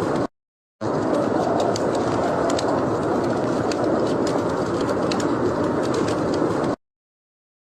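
Fire crackling in a fireplace: a steady rushing hiss with frequent sharp pops. The sound cuts out to dead silence twice, briefly near the start and again about a second before the end.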